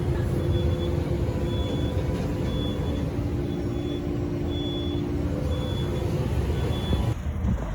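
A heavy vehicle's engine running with a steady low rumble and hum, while a short high beep repeats about once a second.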